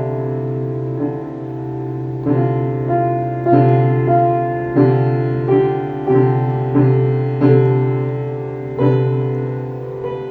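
Slow, gentle piano music: notes and chords struck roughly once a second, each ringing on and fading away.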